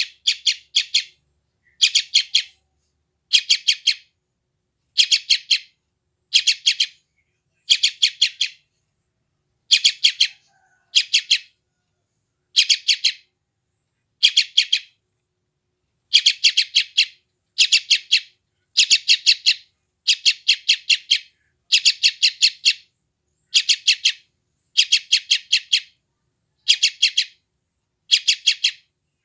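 Yellow-vented bulbul (trucukan) chick calling, short bursts of four or five quick, high chirps repeated about once a second with short silences between.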